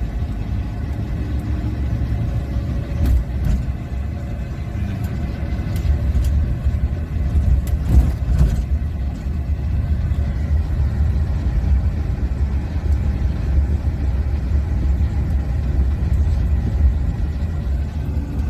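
Car being driven in traffic, heard from inside the cabin: a steady low rumble of engine and road noise.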